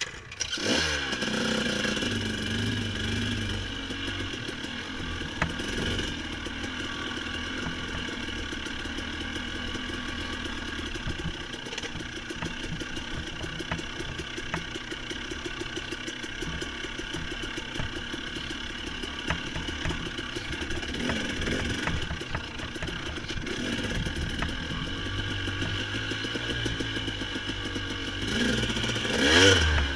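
Dirt bike engine running at low revs, rising briefly with throttle about a second in, around twenty seconds in and again near the end.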